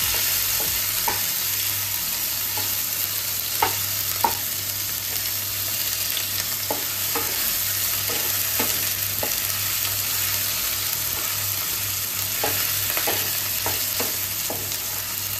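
Chopped tomato and ginger paste sizzling in hot oil in a non-stick kadai, a steady frying hiss, while a spatula stirs and scrapes through it with irregular taps against the pan.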